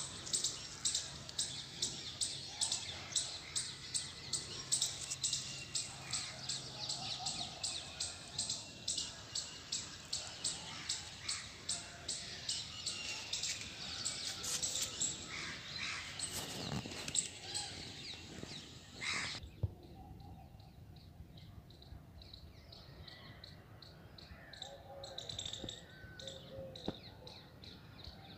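A bird chirping over and over, short high calls about two or three a second; about nineteen seconds in the sound changes abruptly and only quieter, scattered chirps remain.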